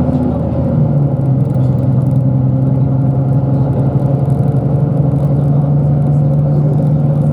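Engine and road noise of a moving route bus, heard from inside the cabin: a steady low engine hum with rumble that holds even throughout.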